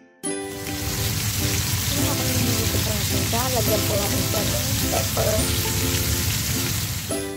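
Flour-dredged chicken breast pieces frying in oil in a pan, a steady sizzle that starts just after the beginning and cuts off near the end.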